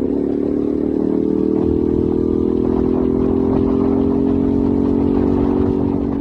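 Ducati Streetfighter motorcycle engine under way, pulling steadily in one gear with its note slowly rising in pitch, then easing off near the end.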